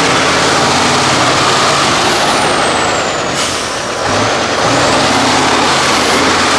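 Tatra 6x6 trial truck's diesel engine running hard under load, with a high whine that glides up and down. It eases off briefly about three and a half seconds in, then picks up again.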